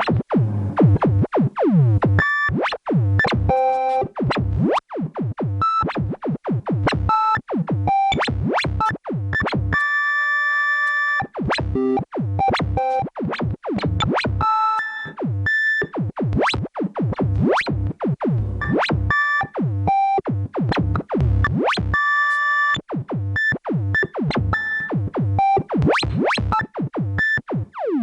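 Korg Volca Modular synthesizer playing a fast, irregular stream of short zapping notes that sweep sharply in pitch, mixed with ringing, bell-like metallic tones. A held bell-like chord sounds briefly about ten seconds in.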